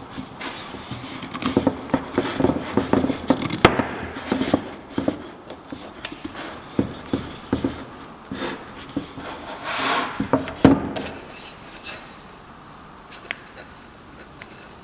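Irregular knocks and taps of wooden parts and hand tools being handled at a workbench. They come thick for the first ten seconds or so and thin out near the end.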